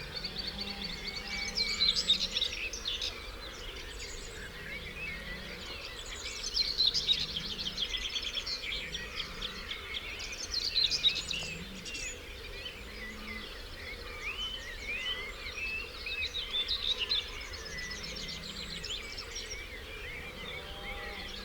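Dawn chorus: several songbirds singing over one another, with a loud, rapid trilling phrase every few seconds, over a steady low background rush of a stream.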